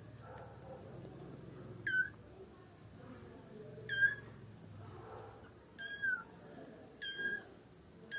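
A cat mewing repeatedly: short, high-pitched mews, several of them about every second or two, some in quick pairs.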